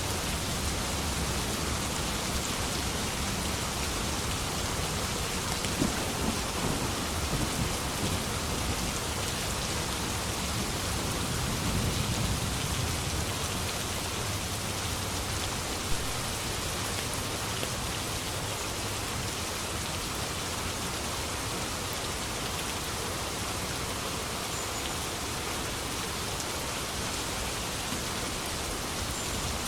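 Steady heavy rain falling, with low rolls of thunder rumbling about six seconds in and again around twelve seconds in, and a few sharp drop cracks.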